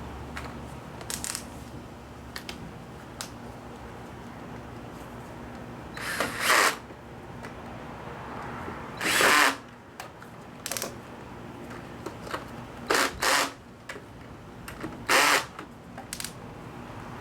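Power drill running in several short bursts of about half a second, a few seconds apart, driving in the bolts that fix a scooter's intake manifold to the engine.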